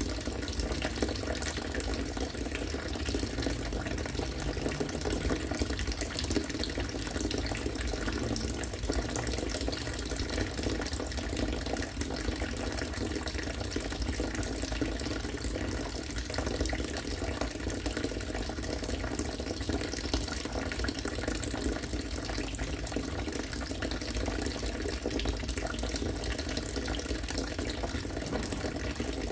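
Harvested rainwater falling in a steady stream, a continuous pour like a running tap.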